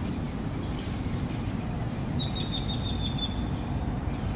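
A steady low rumble fills the background. About two seconds in, a bird gives a quick trill of rapid high notes lasting about a second.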